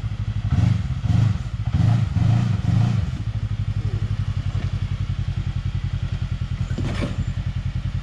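Side-by-side UTV engine blipping the throttle in repeated short surges as a stuck machine tries to climb off a rock, then settling into an even idle. A single sharp clack comes about seven seconds in.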